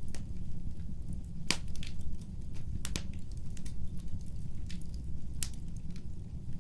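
Wood fire burning with a steady low rumble of flames and scattered sharp crackles and pops, three of them louder than the rest.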